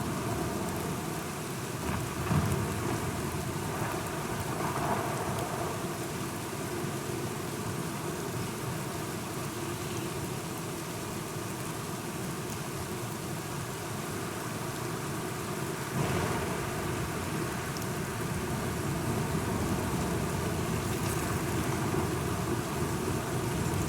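Steady rain falling with thunder rumbling. The sound swells briefly about two seconds in and rises suddenly again about sixteen seconds in.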